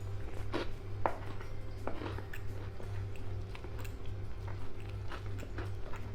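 Close-miked chewing and biting of food, with many short, sharp crunchy clicks at irregular moments, over a steady low hum.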